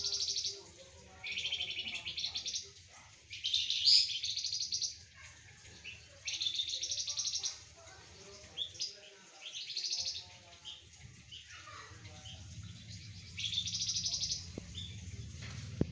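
A caged flamboyan songbird singing in repeated phrases, about six bursts of fast, high trilled chatter, each around a second long with short pauses between.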